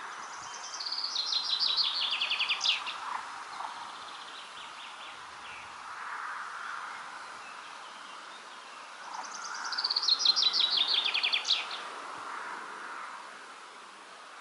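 A songbird sings the same short song twice: a fast trill that steps down in pitch and ends in a quick flourish. A steady background noise of outdoor ambience runs beneath it.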